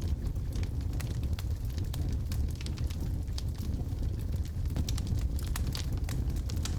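Wood logs burning in a fireplace: a steady low rumble of the fire, with many small sharp crackles and pops scattered irregularly throughout.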